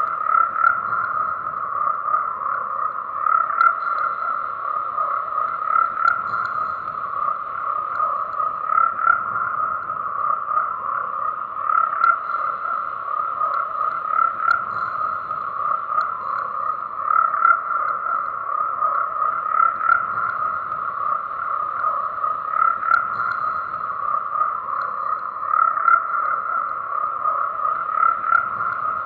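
A chorus of many frogs croaking continuously. The overlapping calls make a dense, steady din that swells slightly every couple of seconds.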